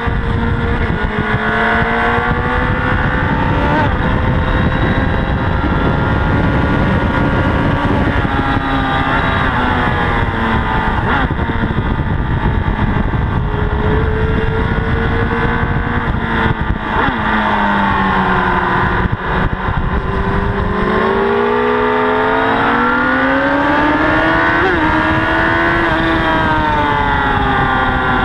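Honda CBR1000RR's inline-four engine running hard under heavy wind rush on the bike-mounted camera. Its pitch holds high, drops steeply about two-thirds of the way through as the bike slows, climbs again under acceleration, and falls near the end.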